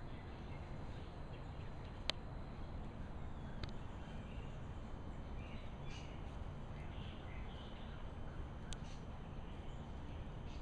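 Faint bird calls over a steady low outdoor rumble, with a few sharp clicks scattered through.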